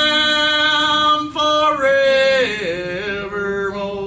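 Men and women singing a gospel song together, holding a long note on the word "Lamb," then moving to a new note about a second in and sliding down to another.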